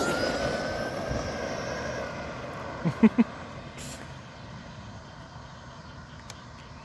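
A vehicle passes and fades away, its whine slowly falling in pitch over the first two seconds. A couple of brief loud sounds come about three seconds in, then only a low steady background noise.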